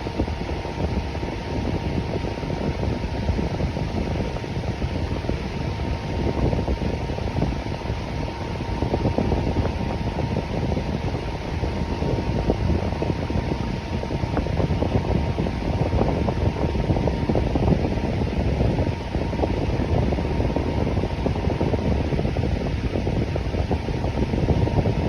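Electric fan running with a steady whoosh of moving air, strongest in the low range, and a faint steady hum.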